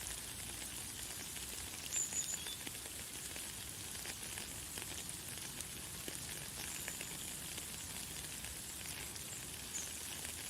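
Light, fine rain falling steadily: an even hiss of many small drops. A few short, high bird chirps sound over it, the clearest about two seconds in.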